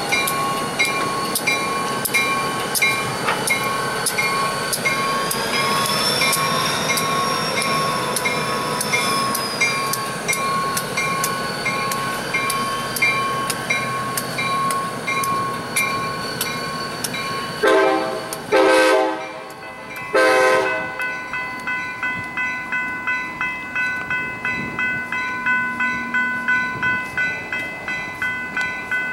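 Diesel locomotives rolling by with a bell ringing about twice a second. About two-thirds of the way through, a locomotive horn sounds two blasts, a long one then a shorter one, and a grade-crossing bell then rings steadily with the gates down.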